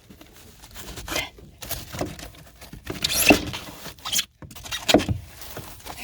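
Old pour-in flotation foam being pried and scraped loose from a boat hull by hand, in irregular crunching scrapes about a second apart; the strongest comes about halfway through.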